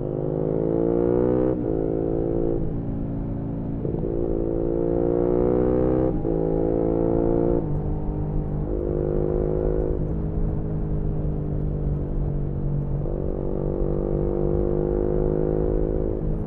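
2018 Yamaha MT-125's single-cylinder four-stroke engine through an aftermarket GPR exhaust, heard onboard while riding. The revs climb and drop again several times as it shifts through gears, then settle into a steadier, slowly rising pull for the second half.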